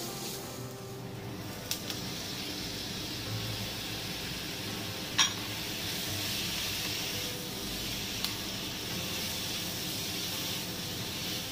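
Chopped onion and garlic sizzling in a wok as they are stir-fried with a spatula, the sizzle growing a little fuller once pineapple, carrot and red pepper pieces go in. A few short clinks, the sharpest about five seconds in, with smaller ones near two and eight seconds.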